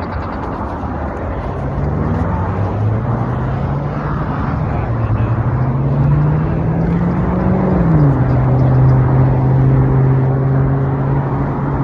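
Road and wind noise from riding through traffic, with an engine hum that climbs steadily in pitch for several seconds, drops abruptly about eight seconds in, then holds steady.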